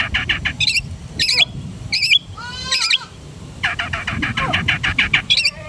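Long-tailed shrike singing: fast chattering trains of repeated notes mixed with varied mimicked calls, one with falling and rising glides about halfway through, over a low background rumble.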